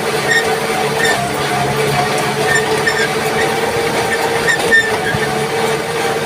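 A Kubota tractor engine running steadily while plowing, with short high squeaks at irregular intervals.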